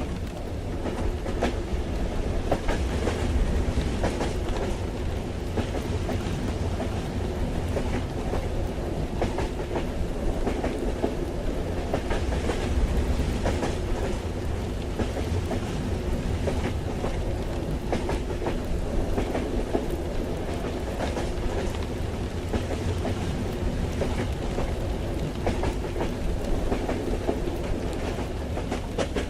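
Steady rumble of a train carriage rolling along the track, heard from inside, with the clickety-clack of the wheels and a light patter of rain.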